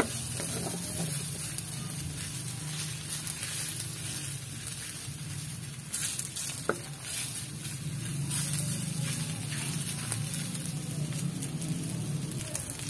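Strips of fish cake frying in oil in a wok, sizzling steadily while a wooden spatula stirs and scrapes them against the pan.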